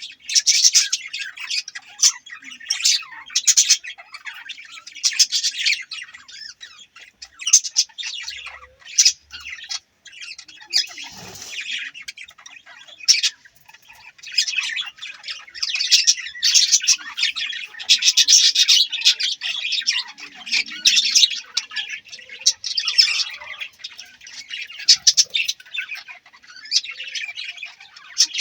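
Several budgerigars chirping and chattering in a near-continuous stream of short, high chirps, with a brief lull about ten seconds in.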